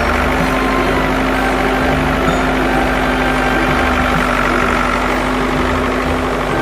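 A large engine running steadily at idle, with a constant low hum.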